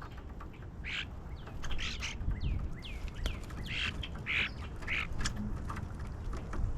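Wild birds calling at a backyard feeder: many quick chirps, each falling in pitch, mixed with a few harsh, raspy calls, over a low rumble.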